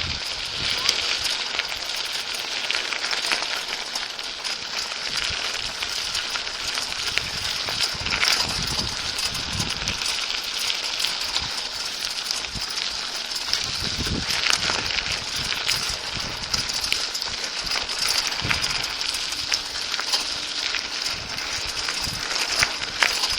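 Bicycle riding heard from a phone strapped to the rider's chest: steady crackling tyre and road noise, with scattered clicks and rattles and now and then a low bump.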